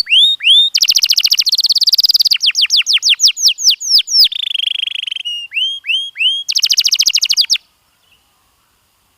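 Domestic canary singing: fast trills of repeated sweeping notes, a held buzzy note in the middle, and a last rapid trill before the song stops abruptly about three-quarters of the way through.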